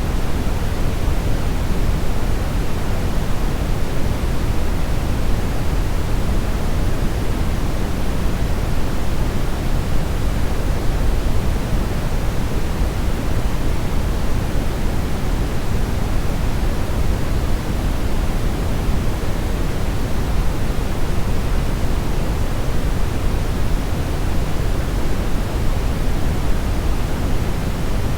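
Brown noise: a steady, even rushing hiss weighted heavily toward the low end, with no rhythm, tones or changes.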